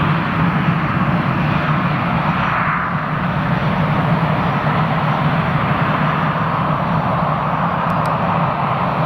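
Airliner engines running loud and steady: a continuous low hum under a strong rushing roar.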